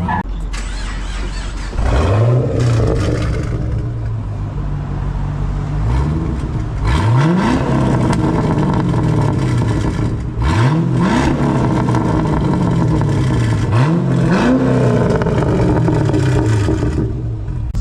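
Car engine revving repeatedly, about five times: each rev climbs sharply, then falls back slowly.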